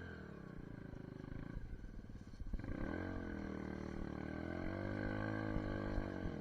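SSR 150 pit bike's single-cylinder four-stroke engine running while being ridden, its pitch rising and falling with the throttle. It picks up and revs harder about two and a half seconds in.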